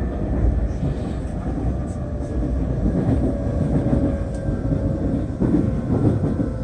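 Nankai Airport Line train running at speed, heard from inside the carriage: a steady low rumble of wheels on the track, with a faint steady tone above it.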